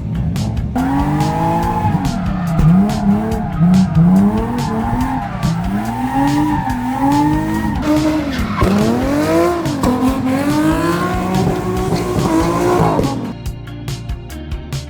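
Drift car engine revving hard, its pitch rising and falling again and again, with tyre squeal from the sliding car. Music plays under it. The car sound cuts off about 13 seconds in, leaving the music alone.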